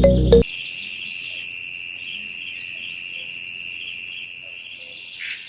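A steady, high-pitched insect drone over faint outdoor ambience. A loud musical tone cuts off in the first half second.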